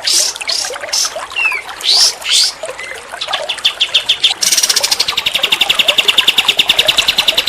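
Songbird singing: a run of quick rising whistles, about two a second, then from about three seconds in a rapid high trill that turns louder and faster about halfway through.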